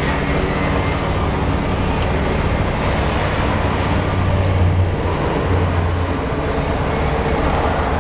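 Highway traffic: heavy trucks passing close by, a steady low engine and tyre rumble that swells around the middle.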